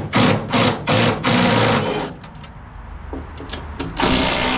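Power tool running in several short bursts, then one longer run near the end.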